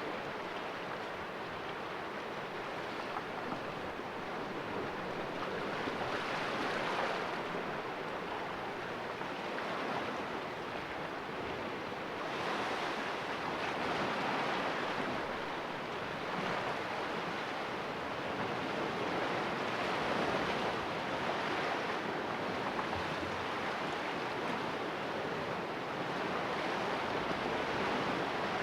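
Sea waves washing against rocks in a small cove, a steady rush that swells and eases every few seconds as each wave breaks.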